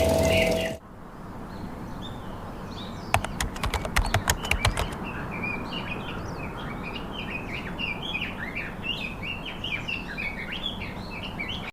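Small birds chirping, a busy run of short high chirps one after another. Shortly before the chirping starts there is a quick series of about a dozen sharp clicks.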